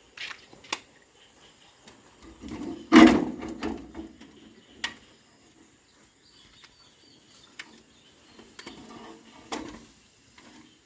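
Scattered knocks and clicks of objects being handled, with one heavier thud about three seconds in.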